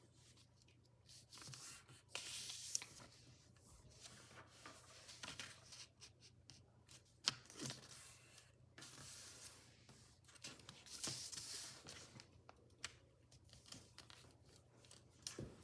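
A sheet of paper being folded by hand: faint, intermittent rustling with crisp creasing sounds, one sharper crease about seven seconds in, over a low steady hum.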